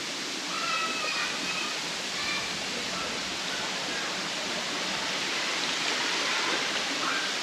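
Steady rush of a waterfall pouring into a pool, with faint, distant children's voices over it now and then.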